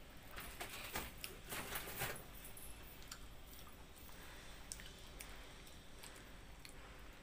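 A person eating rice by hand: chewing and mouth smacks, and fingers working soft, wet food. A cluster of short clicky smacks comes in the first two seconds, then it goes quieter.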